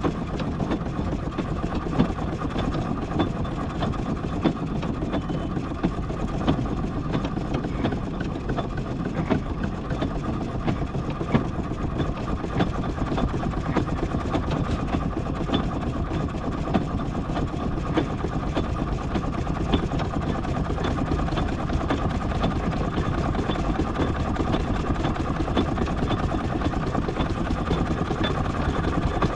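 Miniature steam traction engine running steadily at a crawl in bottom gear, with a few isolated sharp knocks.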